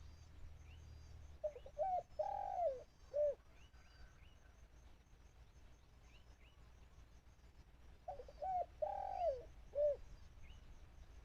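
Spotted dove cooing twice, each phrase a few short coos, a longer drawn-out coo and a short final coo, about six seconds apart, the call used by a decoy dove to lure wild doves. Faint chirps of small birds are heard between them.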